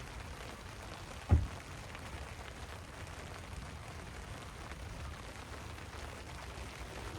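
Steady rain falling, with one dull thump a little over a second in.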